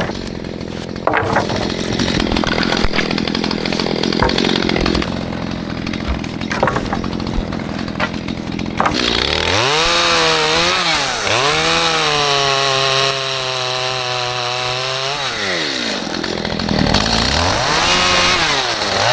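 Stihl MS211 two-stroke chainsaw cutting into a small tree for about nine seconds, then revving freely. It rises, dips, holds high for about four seconds and drops back, then revs up once more near the end.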